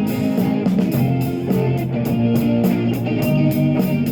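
Live rock band playing an instrumental passage between vocal lines: electric guitar over a steady beat.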